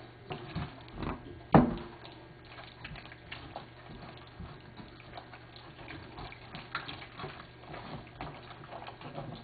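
Hands squishing raw chicken thigh pieces with egg and cornstarch: irregular wet squelches and small clicks, with one sharp knock about a second and a half in.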